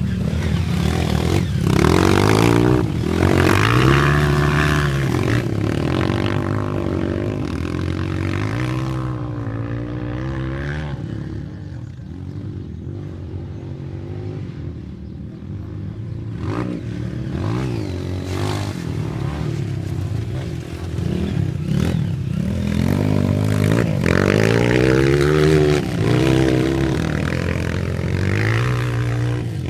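Dirt bike engines revving, their pitch climbing and dropping back over and over as they accelerate and shift. They are loudest about two to five seconds in and again toward the end.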